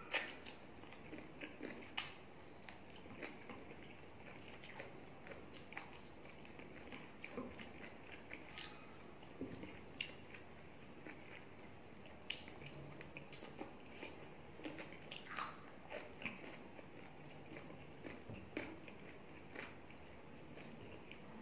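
Someone eating chicken curry and rice with their hands: chewing with irregular wet smacking clicks from the mouth.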